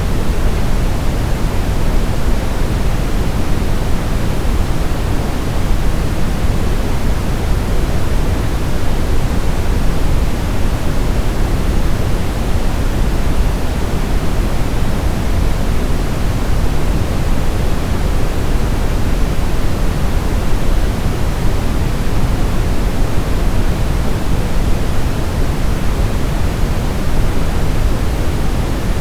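Continuous generated sleep noise for babies: a steady, even hiss weighted toward the low end, without any change.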